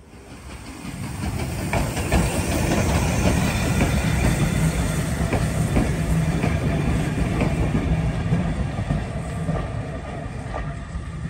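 Steam-hauled train of vintage carriages rolling past, its wheels clattering over the rail joints with a steady rumble. It swells up over the first couple of seconds and slowly fades near the end as the train moves away.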